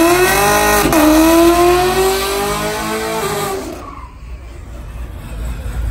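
A drag-racing car's engine at full throttle, its note rising, with a gear shift about a second in before it climbs again. It fades away about four seconds in.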